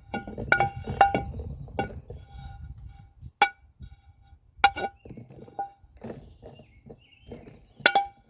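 A spatula knocking and scraping against a nonstick frying pan while eggs are cooked, giving a string of sharp, briefly ringing clinks spread over several seconds. The loudest clinks come about a second in and near the end.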